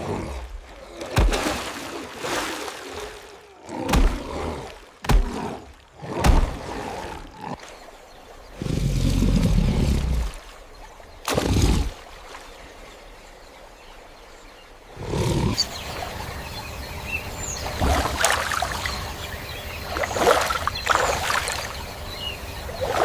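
A sound-effects mix of animal roars and growls with sudden thuds and rushes of noise, coming as separate bursts, with a longer deep rumble about nine seconds in and busier sound in the second half.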